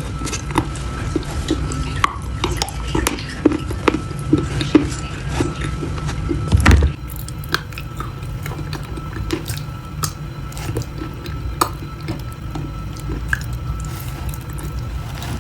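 Close-miked crunching and crackling of something crisp: a fast run of short, sharp crackles over a steady low hum, with one louder crunch about seven seconds in.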